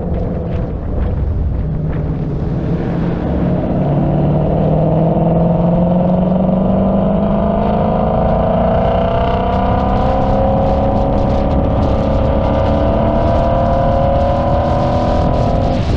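Car engine running under load, its pitch climbing slowly for several seconds and then holding steady, over a low rumble of road and wind noise.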